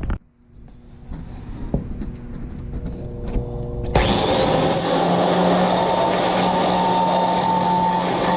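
A power tool starts suddenly about four seconds in and runs steadily and loudly, after a quieter stretch with a faint hum and a few clicks.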